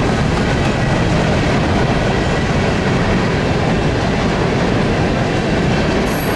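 Empty Norfolk Southern coke hopper cars rolling past at speed: a steady, loud rolling noise of steel wheels on the rails.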